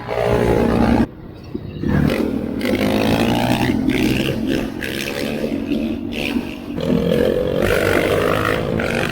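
Engine revving hard under load, its pitch climbing and falling, with a brief drop in level about a second in.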